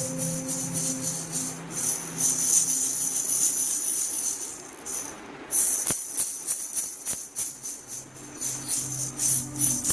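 Handheld rattle shaken in quick, continuous strokes, with a short pause about five seconds in, over soft background music of low held tones.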